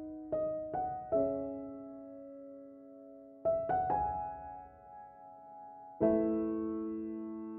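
Slow piano music: three notes struck in quick succession near the start, three more about three and a half seconds in, then a chord about six seconds in, each left to ring and fade.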